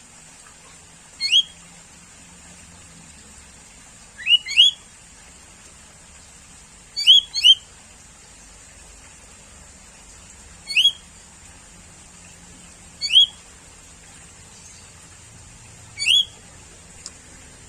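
Sooty-headed bulbul calling: short, quickly rising whistled notes, given six times a few seconds apart, some as quick double notes.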